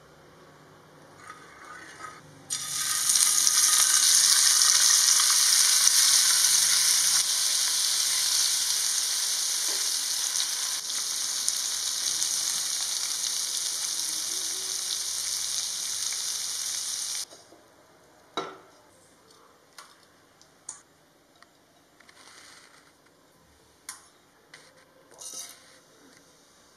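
Paneer cubes sizzling in ghee in a hot flat pan: a loud, steady sizzle that starts about two and a half seconds in, slowly fades and cuts off suddenly after about fifteen seconds. After that it is quiet, with a few faint taps.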